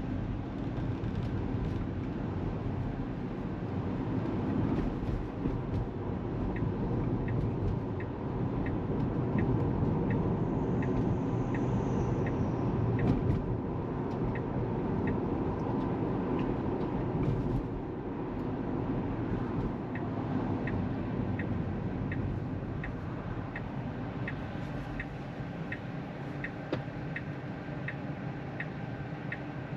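Steady road and tyre noise inside a Tesla Model 3's cabin, with the turn-signal indicator ticking about one and a half times a second from about six seconds in.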